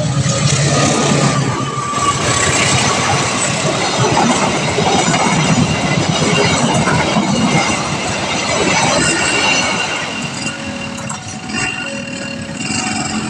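Train passing over a level crossing: a loud, steady rumble and clatter of wheels on the rails, easing off about ten seconds in, when a few faint steady tones come through.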